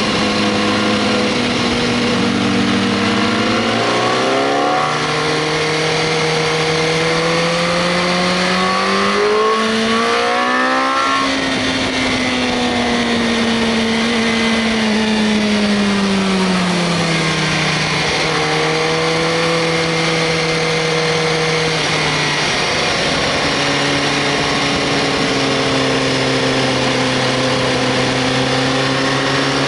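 Inline-four sport motorcycle engine pulling under acceleration. Its pitch climbs for several seconds, drops back in the middle as the rider eases off, holds fairly steady, then climbs again near the end, over a constant rush of wind.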